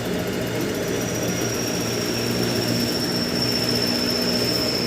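Cooling fans on a traction substation transformer running, switched on by the temperature setting under test: a steady mechanical hum and rush of air, joined about a second in by a thin high whine.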